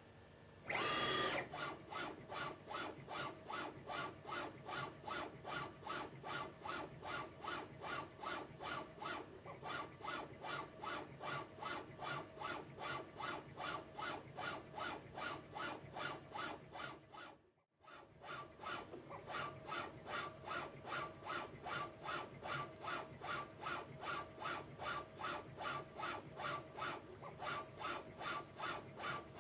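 CNC lathe broaching metal: the tool scrapes in short, rapid back-and-forth strokes, about three a second, each one a rasping, filing-like cut. A louder burst comes about a second in, and the strokes pause briefly about 17 seconds in before resuming.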